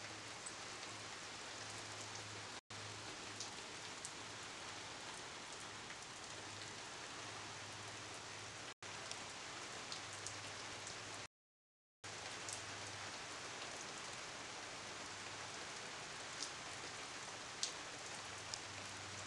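Steady rain from the tail end of a monsoon thunderstorm, an even hiss with single drops ticking sharply now and then. The sound drops out briefly three times.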